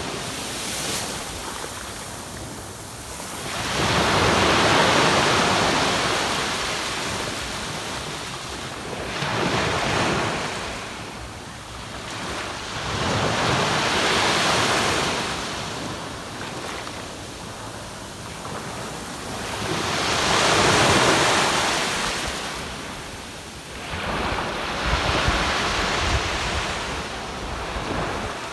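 Ocean waves breaking and washing up a sandy beach, each surge swelling and fading every few seconds, with wind buffeting the microphone.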